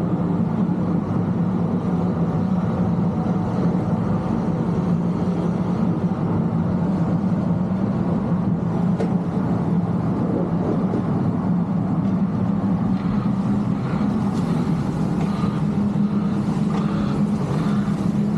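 Heavy snow-removal machinery running: a steady, unbroken diesel engine drone.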